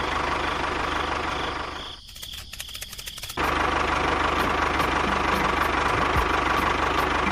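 A motor running with a fast, even knocking pulse. It drops away about two seconds in and starts again about a second and a half later.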